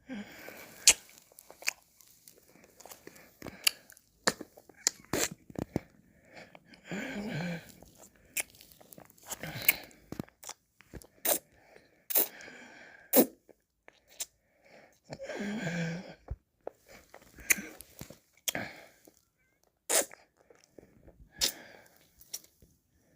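Close-miked mouth sounds of someone eating ice cream: many short, sharp, wet smacks and clicks. There are two longer stretches of licking, about seven and sixteen seconds in.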